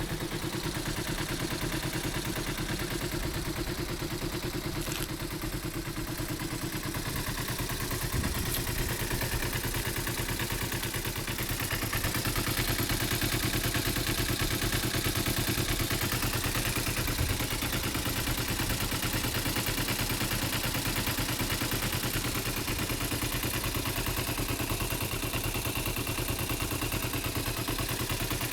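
Kawasaki ZZ-R250's parallel-twin engine idling steadily through a Tsukigire aftermarket racing muffler, a little louder from about twelve seconds in.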